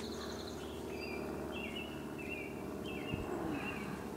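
A bird chirping, a series of short repeated call notes, over a steady low hum of outdoor background. A single low thump sounds a little past three seconds in.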